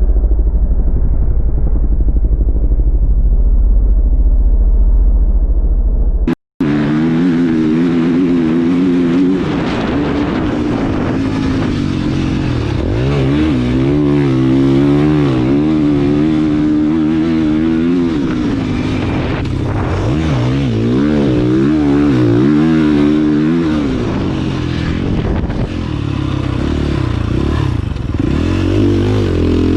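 Motocross dirt bike engine being ridden hard, its pitch rising and falling with the throttle through the gears. For the first six seconds it sounds muffled and deep, then it cuts out briefly and comes back clearer.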